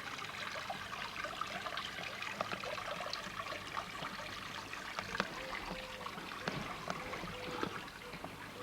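Water trickling, with many small bubbling drips and a few light clicks.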